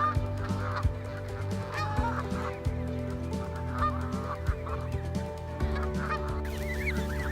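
Canada geese honking, short calls repeated every second or so.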